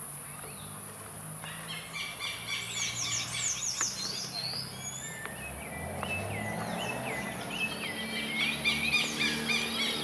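Birds chirping and calling: many quick, mostly falling chirps overlapping, starting about one and a half seconds in, over a faint steady low hum.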